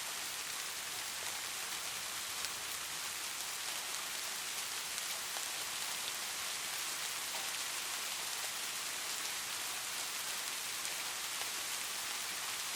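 Light rain falling steadily, a constant fine hiss dotted with many small drop ticks.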